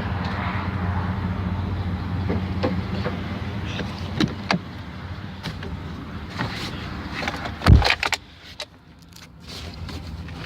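Truck running down the road, a steady engine hum with road noise and scattered rattles and clicks. A single loud thump comes about three-quarters of the way in, and then the sound drops quieter for a moment before a lower hum returns.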